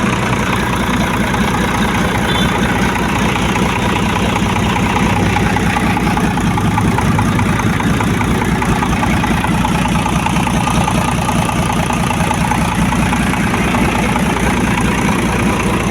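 An engine idling steadily with an even, fast pulse.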